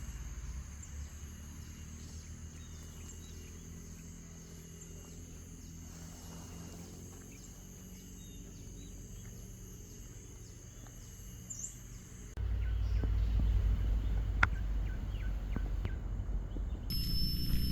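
Insects trilling steadily in the forest as several unbroken high-pitched tones. About twelve seconds in the sound cuts abruptly to a much louder low rumbling noise with a single sharp click.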